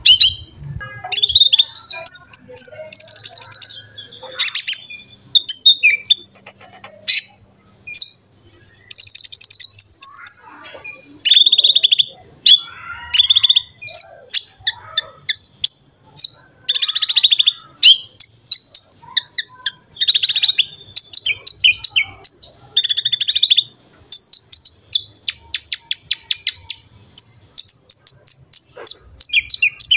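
Kolibri ninja (Van Hasselt's sunbird) singing energetically: loud, high-pitched chirps, short sweeping whistles and fast buzzy trills in quick, nearly unbroken phrases.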